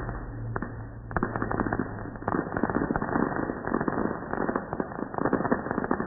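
Firework crackling: a dense run of rapid small pops and bangs that thickens about a second in.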